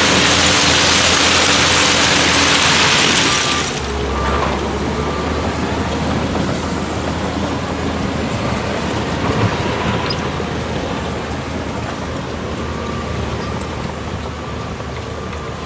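Heavy diesel engine of road-building machinery running steadily. A loud hiss lies over it for the first few seconds and cuts off suddenly about four seconds in.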